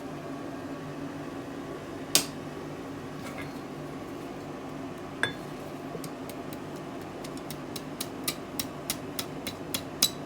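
Hammer striking hot steel over the edge of an anvil, rolling a curl onto the end of a forged fire steel: a single ringing blow about two seconds in, another about five seconds in, then from about seven seconds a run of light quick taps, about four a second, growing louder. A steady hum runs underneath.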